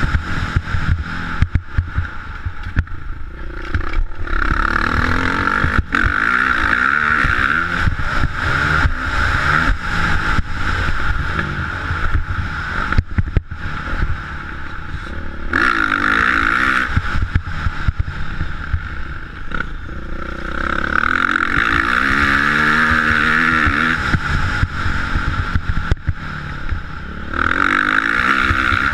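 Motocross motorcycle engines revving up and down in several spells, their pitch climbing and falling, over a constant low rumble with irregular knocks.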